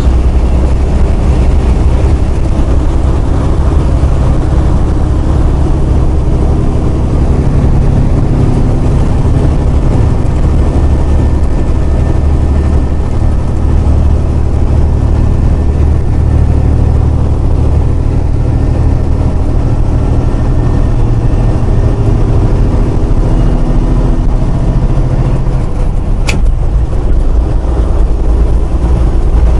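Semi truck's diesel engine running steadily under way, its low drone shifting slightly in pitch, with a single sharp click near the end.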